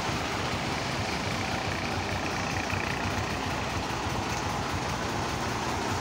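Heavy diesel engine running steadily with a low rumble, from the heavy-haul truck or the bulldozer it is collecting.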